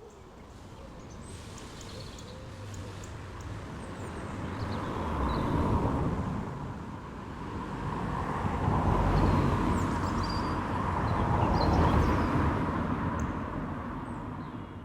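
Road traffic noise, a rumble that swells and fades three times as vehicles pass, with small birds chirping faintly.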